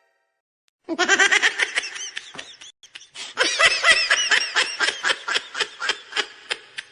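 A laughing meme sound effect: a person laughing hard in rapid, pitched bursts, starting about a second in, with a brief break near the middle.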